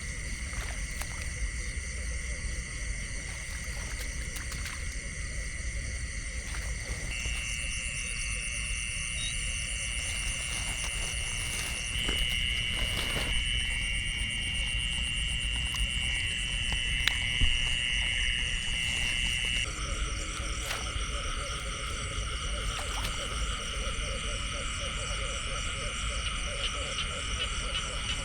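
Chorus of frogs and insects calling together, several steady trilling voices overlapping. The mix of callers shifts a few times, with one loud high trill taking over from about twelve to twenty seconds in.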